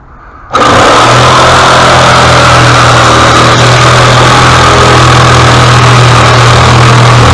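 Loud power-equipment motor that comes on suddenly about half a second in and then runs at a steady, even speed.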